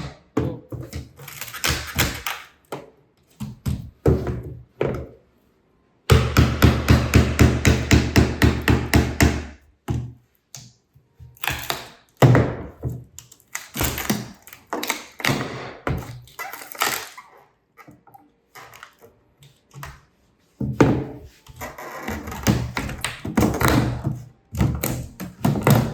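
Handling of the shipping box and packing during an unboxing: runs of quick taps and knocks, broken by a couple of short silences.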